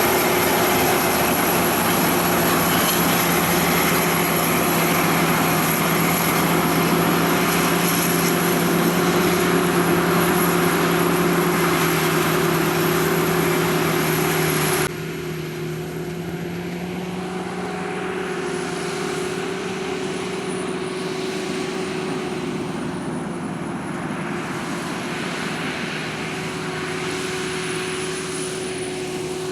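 Sakpattana KM-D#1 rice combine harvester running steadily while harvesting: a constant engine drone with a high, thin whine over it. About halfway through, the sound drops abruptly to a quieter, duller level.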